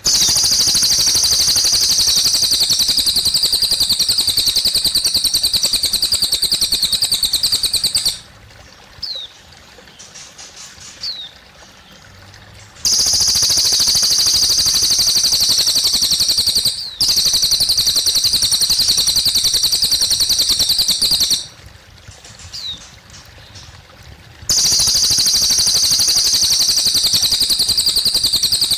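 Cililin (crested jay) giving long, loud, rapid rattling calls in three bouts of several seconds each. In the gaps between bouts there are a few short downward chirps over a faint trickle of water.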